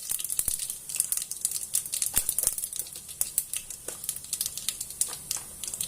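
Mustard seeds and urad dal tempering in hot oil: the seeds crackle and pop in quick, irregular sharp clicks over a light sizzle, with a few louder pops.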